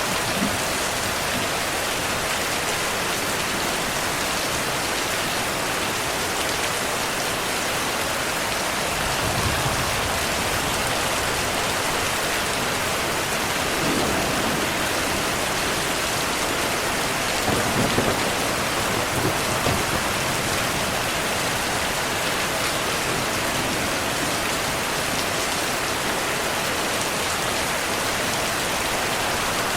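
Heavy rain falling steadily in a thunderstorm, with low rumbles of thunder rolling in about nine seconds in and again a little past halfway.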